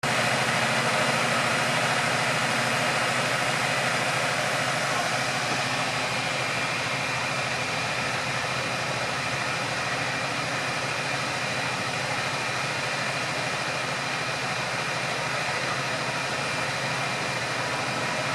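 A vehicle engine idling steadily, with a constant hum and a few faint steady tones.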